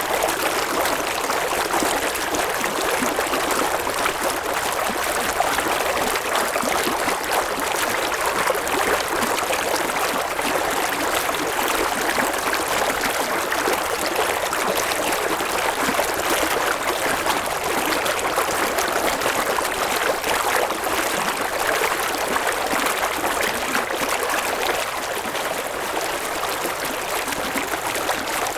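River water flowing over rocks in a steady, unbroken rush and babble.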